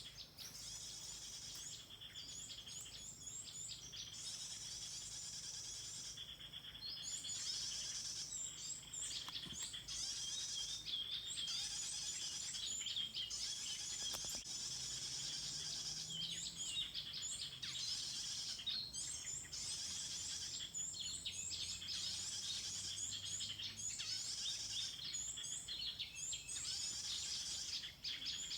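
Small songbirds chirping: many quick, high chirps in rapid runs, over a steady high-pitched tone, louder from about seven seconds in.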